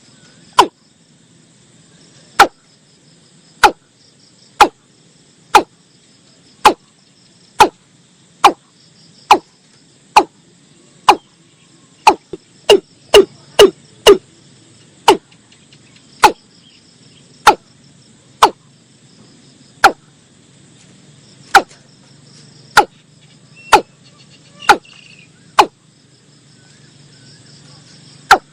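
Watercock calling: a long series of short, sharp notes, about one a second, with a few quicker runs of three or four. A faint steady insect trill runs underneath.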